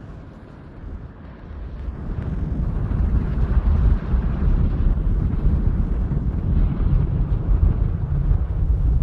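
Wind buffeting the microphone: a heavy, fluttering low rumble that grows louder about two seconds in.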